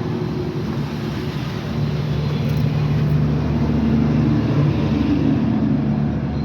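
Diesel lorry engine running after being jump-started from a second battery because its own battery is too weak to crank it; it grows louder and rises a little in pitch about two seconds in as it is revved.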